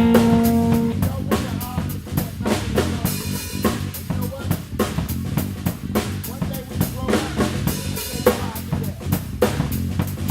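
Live blues band playing: a drum kit groove of bass drum, snare and rimshots over electric bass, with a held guitar note that stops about a second in.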